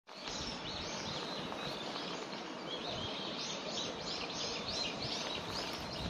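Small birds chirping: a busy run of short, high chirps that come thicker and faster in the second half, over a faint outdoor hiss.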